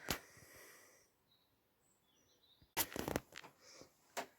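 A sharp click, then near quiet with a few faint high chirps, then a cluster of clicks and rustling about three seconds in, with a few more clicks near the end.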